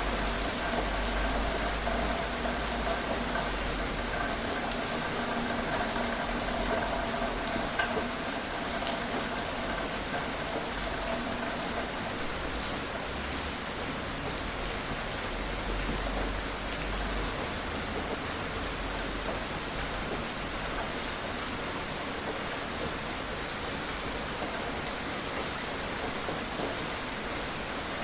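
Gentle rain falling steadily, a continuous hiss of rain on surfaces with scattered individual drop ticks. A faint steady hum sits under it for the first dozen seconds or so, then fades out.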